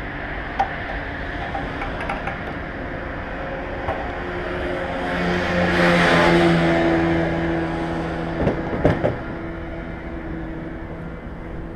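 A motor vehicle engine running with a steady hum. It swells to a louder rush about halfway through and then fades, like a vehicle passing. A few sharp clicks come near the end.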